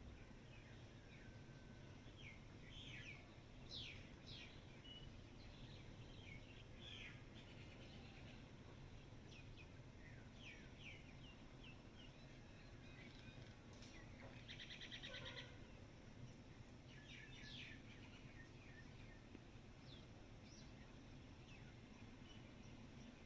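Faint chorus of small birds chirping, with short high calls scattered throughout and a rapid buzzy trill about fifteen seconds in, over a low steady background hum.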